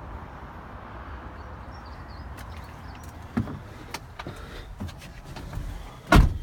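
A few light clicks and knocks, then the Vauxhall Movano's cab door shutting with one heavy thud near the end.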